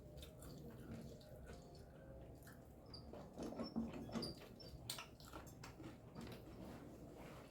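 Faint chewing and small wet smacking clicks of people eating a meal by hand, scattered irregularly, with a faint murmur about three and a half seconds in.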